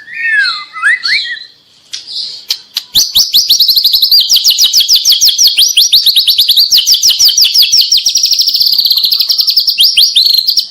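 White-rumped shama, a young spotted 'trotol' bird, singing: a short phrase of gliding whistled notes, then from about three seconds in a long, fast run of repeated high-pitched notes that carries on without a break.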